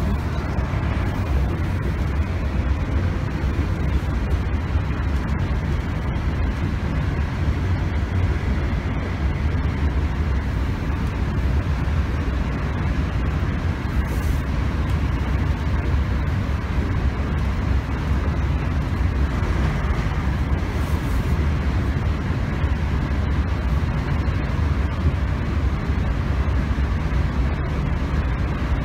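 Steady low rumble and running noise heard from inside a Class 321 electric multiple unit as it travels along the line between stations.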